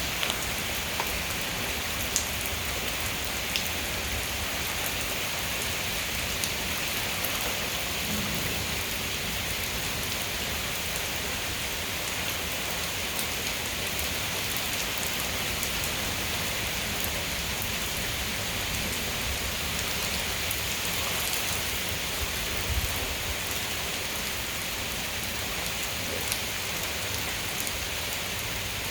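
Steady heavy rain from a severe thunderstorm, falling in an even hiss with scattered louder drop clicks.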